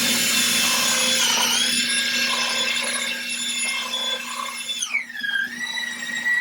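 High-pitched whine of an electric motor or pump, held steady over a low hum. The pitch sags briefly about a second and a half in and drops more deeply near the end, as the motor takes load.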